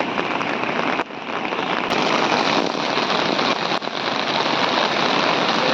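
Steady, loud rush of falling water, with a brief dip about a second in.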